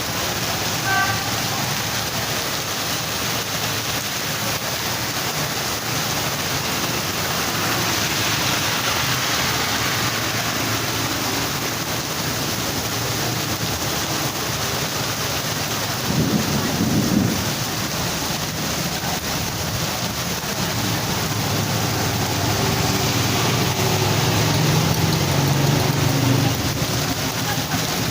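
Heavy rain pouring steadily, a dense even hiss of downpour, with a brief low rumble about sixteen seconds in.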